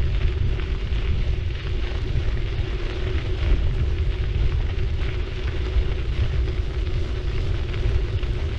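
City bike being ridden, heard through a GoPro MAX's microphone: a steady low rumble of tyres and wind buffeting, a steady hum, and a fine crackle on top.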